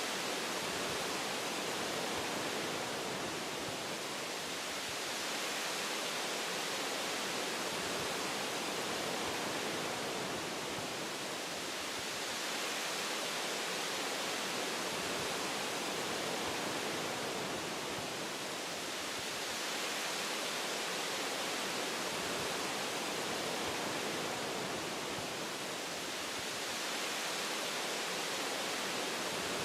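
Wind rushing through tree branches: a steady, even hiss that swells and eases gently every few seconds.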